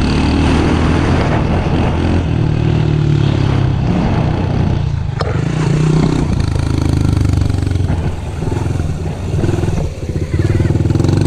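Small off-road vehicle engine running under throttle while riding over rough ground, easing off twice in the last few seconds before picking up again, with a sharp click about five seconds in.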